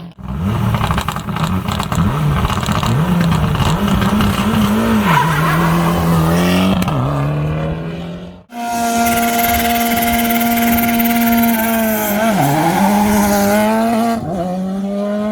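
Rally car engines at a stage start, one car after another. The first is revved up and down, then pulls away with its pitch sagging at each gear change. After an abrupt cut, a second engine is held at steady high revs, then launches with two gear-change drops in pitch.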